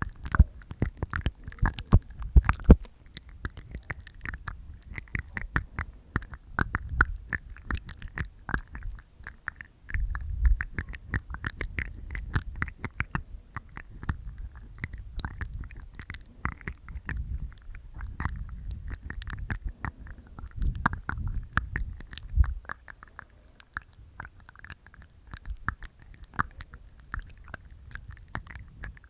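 Close-miked ASMR mouth sounds made inside the mouth: a dense, irregular run of wet tongue and teeth clicks, with a few low muffled thumps.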